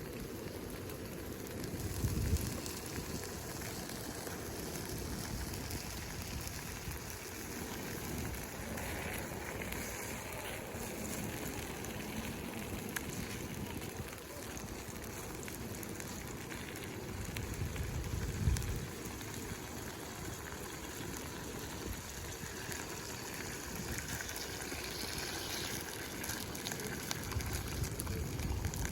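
Wood campfire burning with a steady crackle and hiss. Brief low rumbles come three times: about two seconds in, in the middle, and near the end.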